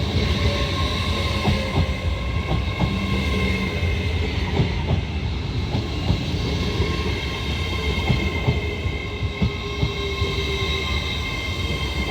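LNER Class 801 Azuma electric train moving at the platform, its wheels clicking irregularly over rail joints, with a steady low rumble and a steady high whine.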